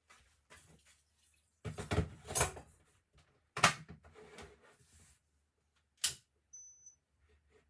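Kitchen handling clatter: several knocks and bangs of things being set down and moved, with one sharp knock a little past halfway and another near the end. A brief high thin tone follows the last knock.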